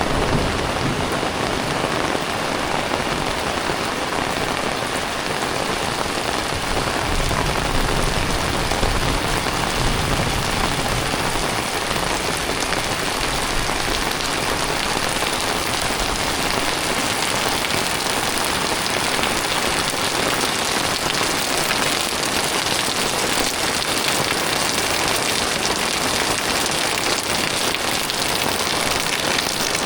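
Heavy tropical rain falling steadily, a dense even patter on the ground and nearby surfaces.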